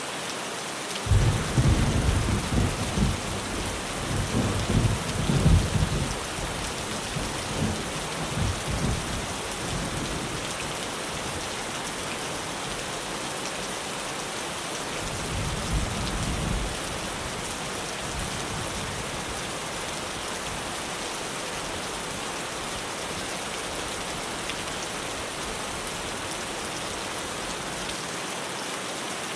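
Steady heavy rain drumming on a tin roof, with a long roll of thunder starting about a second in that fades out over the next several seconds, and a shorter rumble about halfway through.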